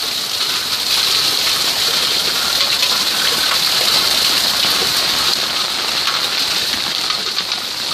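Heavy rain pouring onto wet paving, a steady, really loud hiss of drops splashing close to the microphone.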